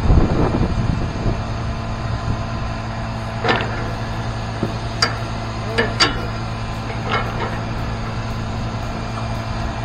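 A truck engine idles with a steady low hum, and about five short, sharp knocks and clanks come in the middle of the stretch.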